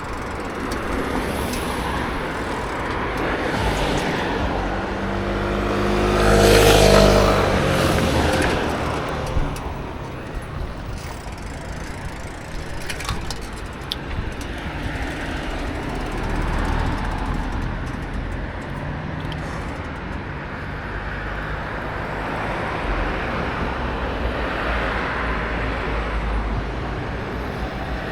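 Road traffic with a steady rush of wind and road noise. A motor vehicle passes close, loudest about seven seconds in; smaller swells of passing traffic come later.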